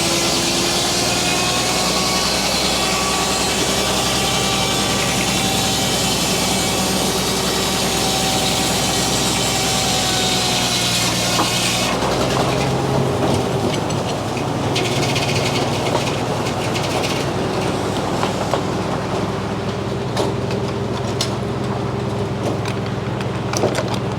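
Frick circular sawmill blade cutting through a poplar log over the steady drone of the mill's drive. About halfway through, the cut ends and the hiss of the wood drops away, leaving the blade and drive running free with scattered clicks and knocks.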